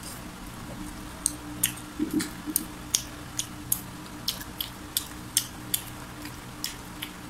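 Close-up crunching of a bite of crispy-battered fried chicken being chewed: sharp, crisp crunches about two to three a second, starting about a second in, over a steady low hum.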